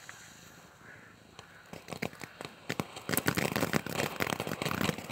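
Firework crackling: a rapid, dense run of sharp little pops that starts about two seconds in and grows louder and thicker from about three seconds on.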